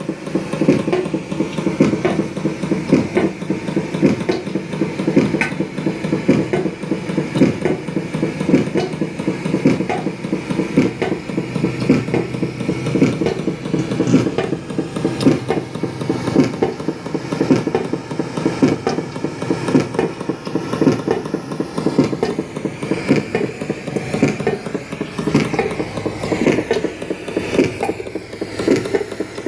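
Continuous dense mechanical rattling and knocking, many irregular taps a second, picked up from 18 m underground. The uploader takes it for tunnel-excavation machinery.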